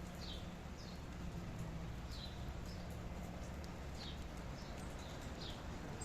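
Steady rain with scattered drop ticks, and a bird giving short, high, falling chirps about once a second.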